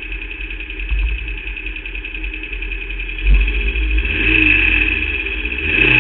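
Onboard sound of a Formula Vauxhall 8v single-seater's four-cylinder engine running, with a knock about three seconds in, after which the revs climb. The engine was misfiring through this race and was held to low revs by a failing alternator/battery.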